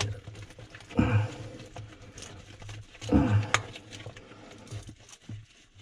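Two short, low grunts, falling in pitch, about a second in and again about three seconds in, with a few sharp clicks of handling between them.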